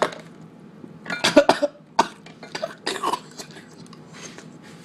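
A man coughing in two short fits, with a sharp knock at the start and another about two seconds in.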